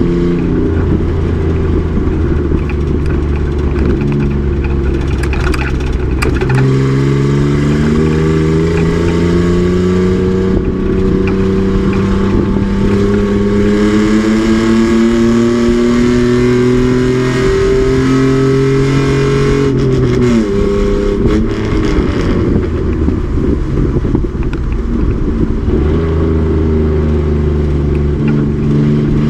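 Race truck's engine under way on track: a steady low drone, then from about six seconds in a long, even climb in engine pitch as it accelerates. About twenty seconds in the pitch falls away sharply as the throttle is lifted, and it settles back to a steady drone.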